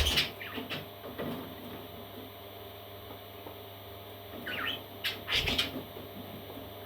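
Parrot chicks giving a few short, high, falling calls about two-thirds of the way in, followed by a brief cluster of knocks and rustling.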